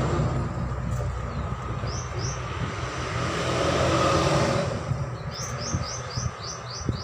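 A motor vehicle's engine running nearby, its sound swelling and then fading about five seconds in. A small bird chirps twice, then gives a quick run of about seven chirps near the end.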